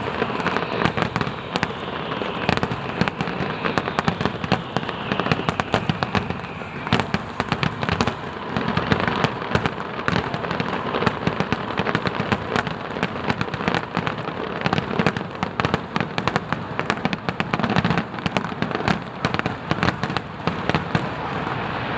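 Fireworks finale: a dense, unbroken barrage of overlapping bangs and crackling from aerial shells.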